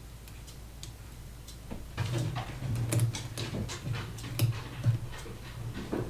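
Light clicks and taps of small tools and parts being handled on a work surface, growing busier and louder about two seconds in with irregular low knocks among the clicks.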